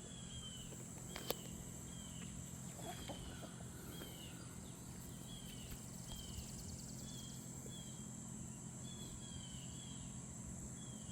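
Faint backyard ambience: a bird repeating short, falling chirps about once a second over a steady high insect drone, with a single sharp click a little over a second in.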